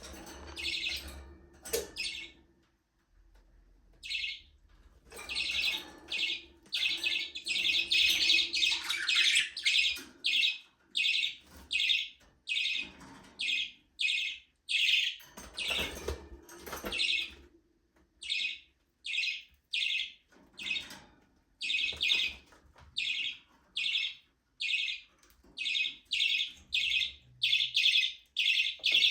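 Budgerigars chirping. A dense stretch of chattering warble in the first half gives way to short chirps repeated roughly twice a second.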